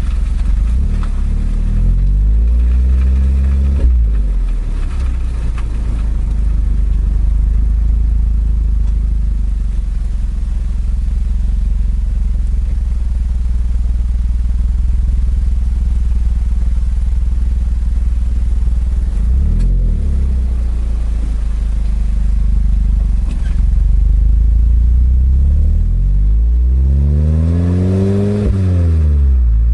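Exhaust of a Suzuki Swift Sport ZC32S's 1.6-litre four-cylinder through an eight-year-old Kakimoto muffler, under way. The note rises under acceleration for the first few seconds, drops abruptly about four seconds in, then holds steady while cruising. It climbs sharply again near the end and falls away.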